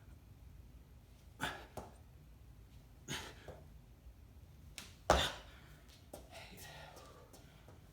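A person's short, forceful exhales while exercising hard, four breaths in quick succession, the loudest about five seconds in.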